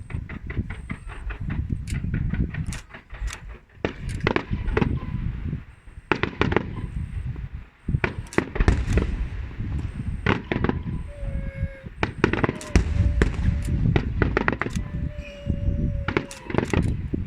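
Aerial fireworks bursting overhead: a dense run of sharp bangs and crackling reports over a low rumble. In the second half a steady mid-pitched tone is held several times among the bangs.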